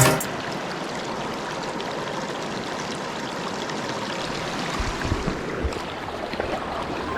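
Mountain stream flowing over rocks: a steady rushing of water, with a few soft low knocks about five seconds in.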